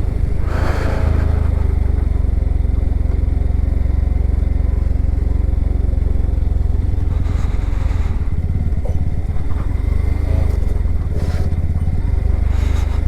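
Motorcycle engine running steadily under way, a continuous low drone with a few brief swells of noise.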